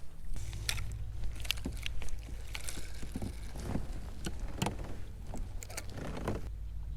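Irregular clicks and knocks from gear and the hull of a fishing kayak, over a steady low hum that starts just after the beginning and changes near the end.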